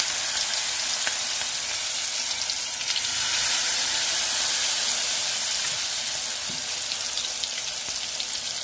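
Onion and egg pakoda batter sizzling as it deep-fries in hot oil in a metal pan, a steady hiss.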